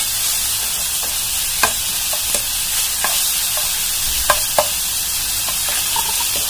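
Chopped onions sizzling in oil in a frying pan while a plastic spatula stirs and scrapes them, with a few short knocks of the spatula against the pan. The onions are being lightly sautéed until they soften.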